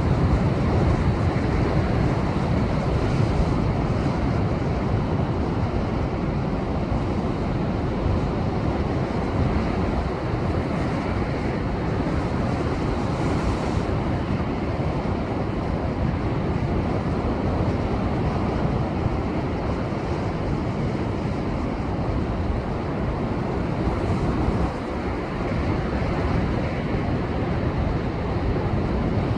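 Rough ocean surf from a post-typhoon swell breaking and churning against a rocky shore, a steady, loud rush of water noise with no let-up.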